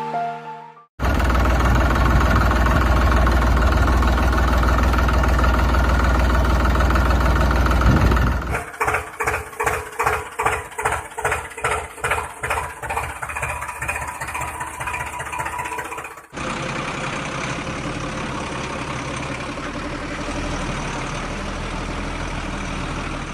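Vehicle engine sounds in three abrupt sections: a loud, steady low run, then a rhythmic chugging at about two beats a second, then a steadier, quieter running sound.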